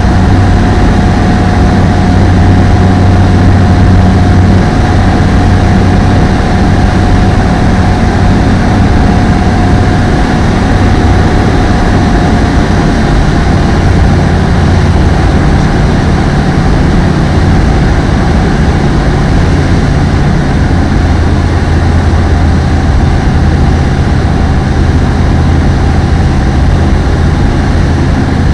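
Apollo Fox ultralight aeroplane's engine and propeller running steadily: a loud, constant low drone with a steady whining tone above it.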